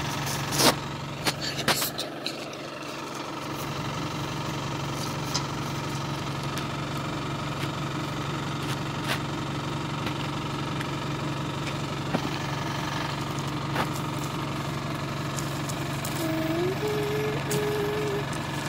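Off-road vehicle's engine idling steadily, with a few sharp knocks in the first two seconds.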